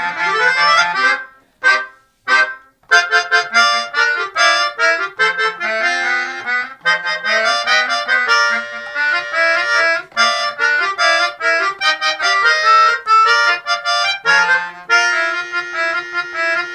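Two keyboard harmonicas (melodicas) playing a duet: a high melody of short, detached notes over a lower moving part. The playing almost stops for a moment about two seconds in, and there are longer held chords near the end.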